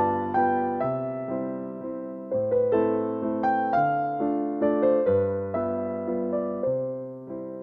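Background piano music: a slow, gentle melody of single struck notes over held bass notes.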